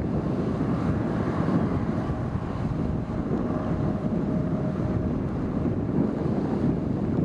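Strong wind buffeting the microphone, a dense, steady low rumble, with a faint steady whine showing for a few seconds in the middle.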